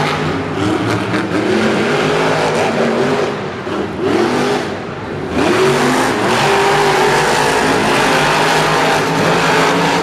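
Monster truck supercharged V8 engines revving hard, their pitch rising and falling as the throttle is worked, dipping briefly about four seconds in before coming back louder.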